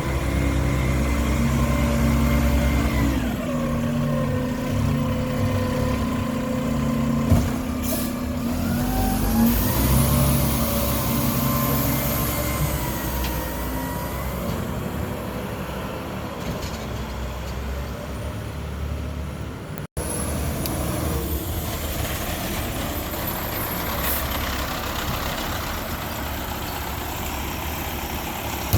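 Mack LR garbage truck's diesel engine running and revving up and down as the truck works, with a whine that rises and falls with the revs. There is a sharp knock about seven seconds in.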